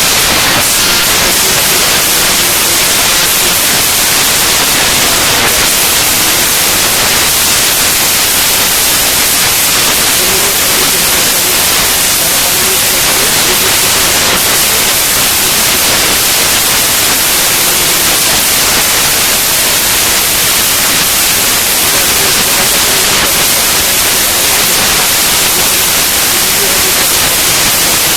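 Loud, steady hiss like static that does not change.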